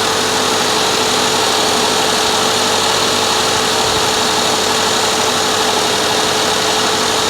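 2014 Subaru Forester XT's turbocharged flat-four engine idling steadily, with the newly fitted air-conditioning compressor engaged and running. A thin steady tone sits over the even engine noise.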